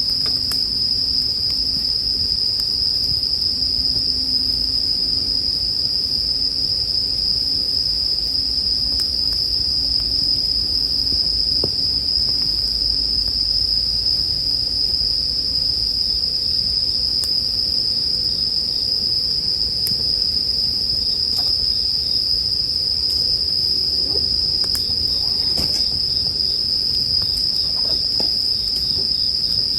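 Japanese bell crickets (suzumushi) chirping in one steady high ring, over a campfire's low rumble with a few faint crackles.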